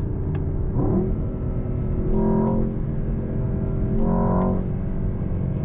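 Twin-turbo V8 engine and exhaust of a Mercedes-AMG S63 heard from inside the cabin while driving, a steady droning note that swells several times as the throttle is opened.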